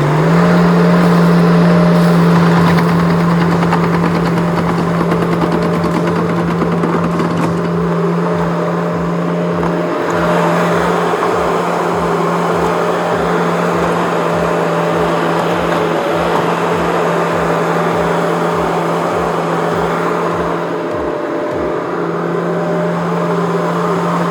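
Skid steer engine running steadily at high revs while it works, with a broad rushing noise over the engine tone. A regular low pulsing at about two a second comes in after a few seconds and fades near the end.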